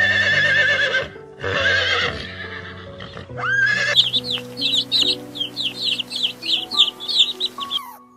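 A horse whinnying twice in long, wavering calls, then young chicks peeping rapidly, about four high, falling peeps a second, over piano music.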